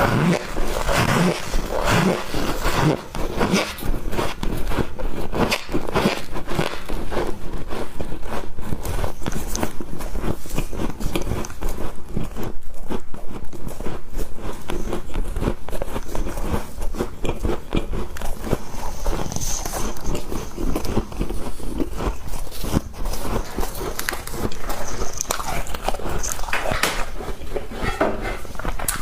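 Close-up biting and chewing of squeaky ice: a fast, unbroken run of crunches and squeaks.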